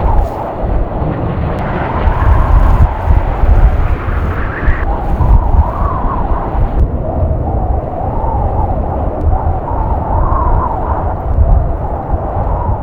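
Strong gusting wind howling, its pitch wavering up and down, with heavy wind rumble buffeting the microphone.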